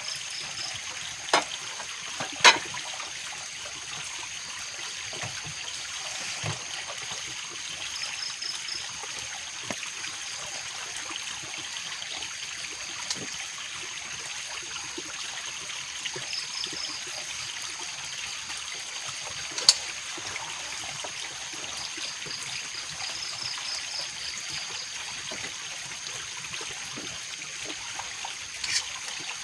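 Water trickling steadily, with a steady high whine and short high chirping trills over it, and a few sharp cracks, the loudest about two and a half seconds in.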